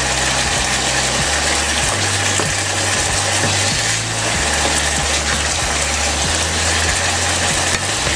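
Chicken and vegetable stir-fry sizzling steadily in a non-stick wok as it is stirred with a wooden spatula, the sauce's liquid almost cooked off. Background music with a low, stepping bass line plays underneath.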